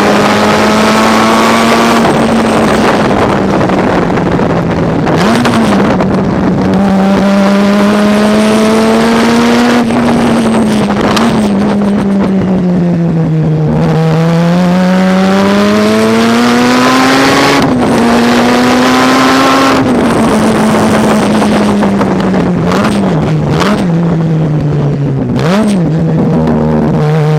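Mazda rotary engine of a race car running at race pace. Its note climbs and falls as it goes up and down the gears, with short throttle blips on the downshifts and one deeper dip about halfway through.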